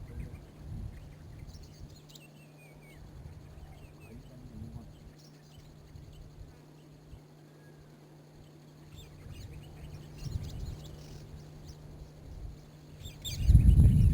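Faint, brief bird chirps over a steady low hum, with swells of low rumbling and a louder low rumble near the end.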